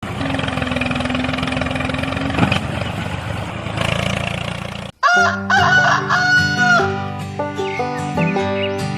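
A rooster crowing, then a sudden cut about five seconds in, after which music with steady notes begins.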